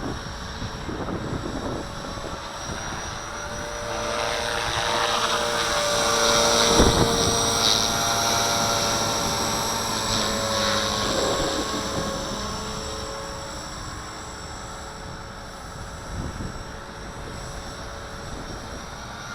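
Walkera V450D01 electric RC helicopter hovering, its motor and rotor blades giving a steady whine. The whine swells louder for a few seconds in the middle, then eases back off.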